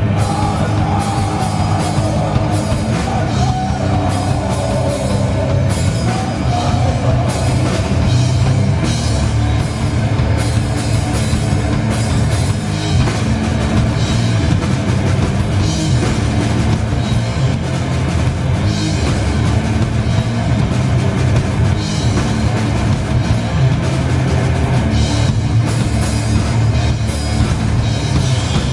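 Heavy metal band playing live: drum kit and distorted guitars, loud and dense. A high melodic line slides downward over the first few seconds.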